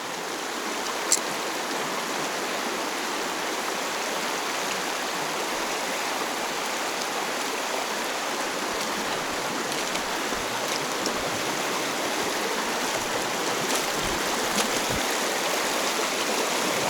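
Mountain river water rushing steadily over a riffle, an even hiss of flowing current. A single sharp click about a second in.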